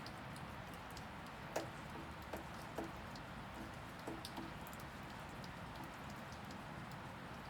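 Steady rain falling, with a few heavier drips landing one by one with a short plink, most of them in the first half.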